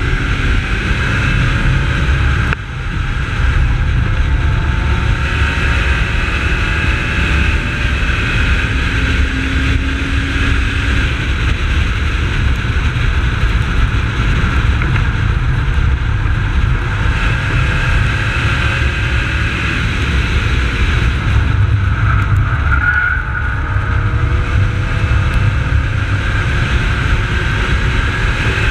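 A VY Commodore's 3.8-litre V6 pulls hard on a race track, its pitch climbing and falling through the gears. A heavy steady low rumble of wind and road noise runs under it, with a brief drop in loudness about two and a half seconds in.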